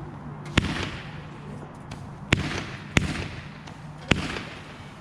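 Backyard consumer fireworks going off: four sharp bangs over a few seconds, each trailing off in a fading crackly tail.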